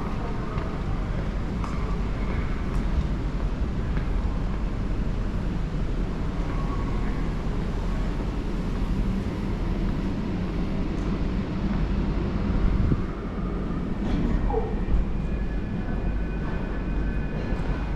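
Steady low rumble of heavy machinery, with faint high steady tones coming in near the end.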